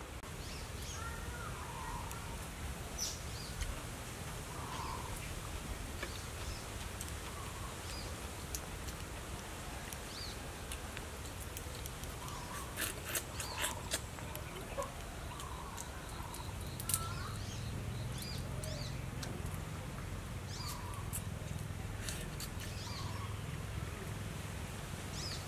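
Rural outdoor ambience: scattered short bird calls over a low steady rumble. A few sharp clicks come about halfway through.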